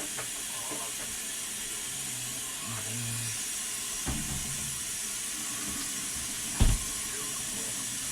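Kitchen tap running steadily into a sink, a constant hiss of water, with a short knock about four seconds in and a louder thump near the end, like an egg or dish set down in the sink.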